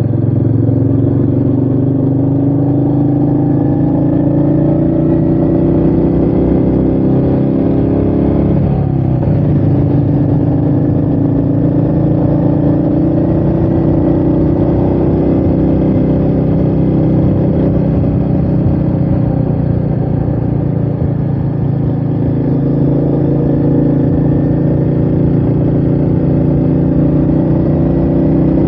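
Royal Enfield Meteor 350's single-cylinder engine running steadily on the move, heard from the rider's chest, with wind noise on the microphone. The engine note changes briefly about nine seconds in.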